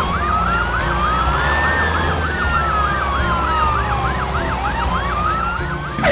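Emergency vehicle sirens sounding together: one fast yelp sweeping up and down about four times a second over a slow wail that rises and falls every couple of seconds, with a steady low rumble underneath.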